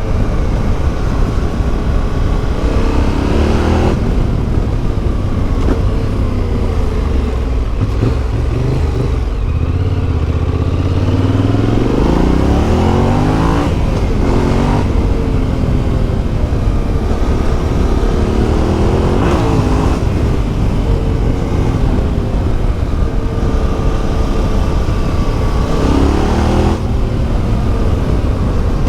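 Yamaha Ténéré 700's CP2 parallel-twin engine through an Akrapovic exhaust, under way on the bike: the revs climb and drop back again and again, with short breaks at the gear changes, the longest pull rising steadily for several seconds in the middle.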